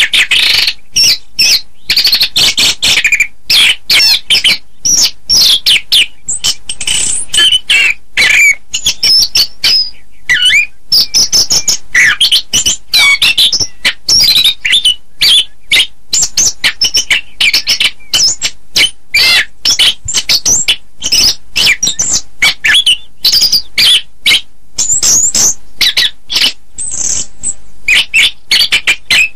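Orange-headed thrush (anis kembang) singing a continuous, varied song of rapid whistled phrases and glides, one after another with short breaks.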